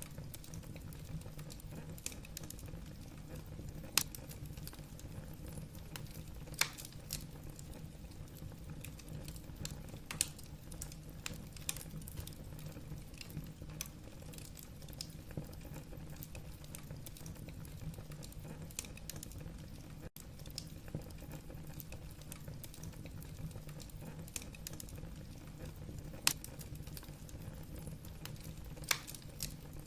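Wood fire crackling in a fireplace: a steady low rumble of the burning with scattered small snaps of the logs and a handful of louder pops.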